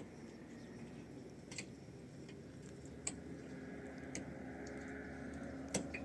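Five sharp taps, irregularly spaced, over a low steady hum.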